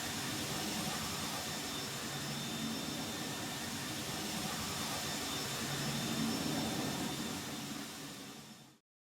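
Steady jet engine noise, a whooshing rumble that fades out and stops shortly before the end.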